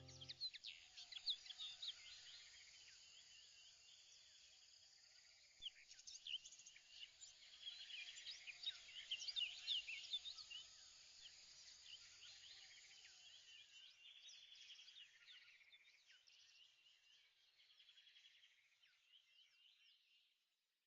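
Faint birdsong: many birds chirping and trilling over one another, busiest in the middle and fading out near the end.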